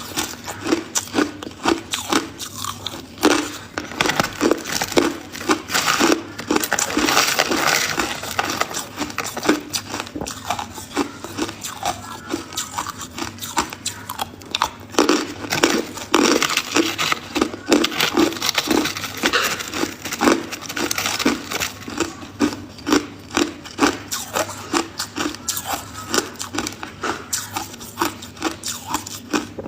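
Ice being chewed close to the microphone: a steady run of quick, crunching bites with crackling between them.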